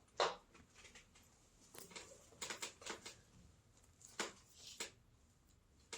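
A magazine-size comic book being picked up and handled: a scatter of short, soft rustles and taps.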